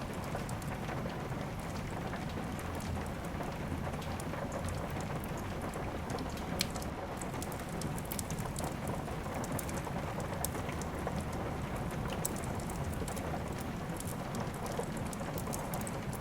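Steady rain with a wood fire crackling: an even wash of rain sound dotted with scattered sharp pops, one louder than the rest about six and a half seconds in.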